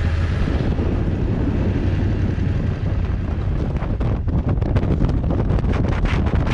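Motorcycle under way: a low engine rumble with wind rushing over the microphone. From about halfway through, the wind buffeting turns choppy, in quick irregular gusts.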